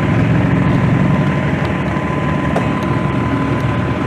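A vehicle engine idling steadily, with a faint steady high tone under it.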